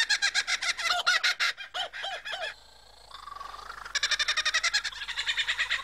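Superb lyrebird singing its mimicked song: rapid runs of repeated chattering notes, a brief break about halfway, a rising whistled note, then another fast run of notes.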